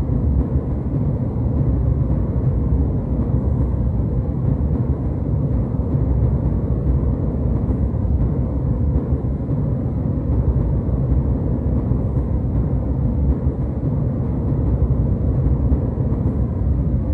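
Jet airliner cabin noise in cruise: a steady, deep rumble of engine and airflow noise, even and unbroken.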